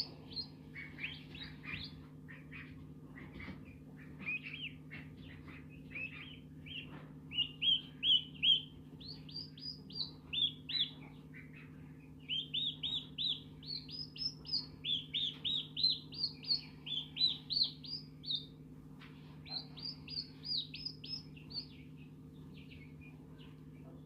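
A bird chirping in runs of short, high, quick notes, fastest in the middle stretch and thinning out near the end, over a steady low hum.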